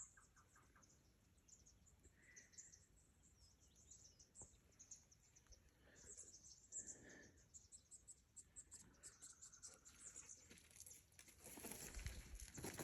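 Faint outdoor quiet with a few short, distant bird calls, and light rustling steps starting near the end.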